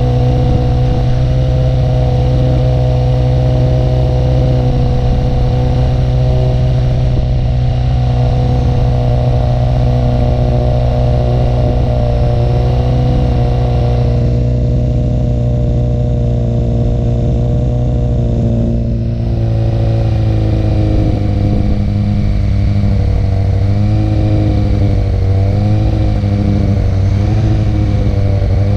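Harley-Davidson Dyna's V-twin engine running steadily through Two Brothers Racing (TBR) exhaust pipes, its pitch wavering slightly about two-thirds of the way through.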